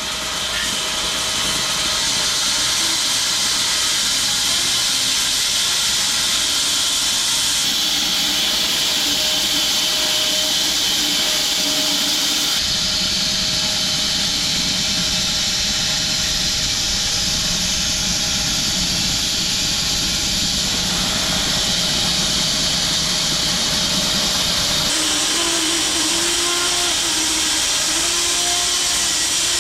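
Home-built 6 ft wide bandsaw mill running and sawing through a piece of elm, a loud, steady hiss. Its tone shifts abruptly a few times, about 8, 13 and 25 seconds in.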